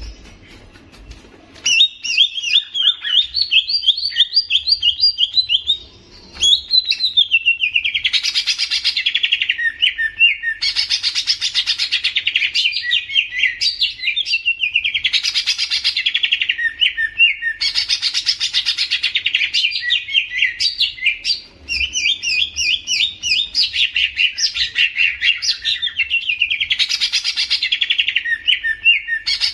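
Green leafbird (cucak ijo) singing a long, rapid run of chirps and trills, starting about two seconds in, with brief breaks around six and twenty-one seconds.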